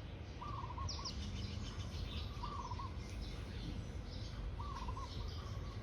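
Birds calling: one bird repeats a short low call three times, about two seconds apart, while fainter high chirps come from other birds over a steady low rumble.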